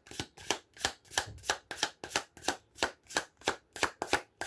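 A tarot deck being shuffled by hand, the cards swishing in a steady rhythm of about three strokes a second.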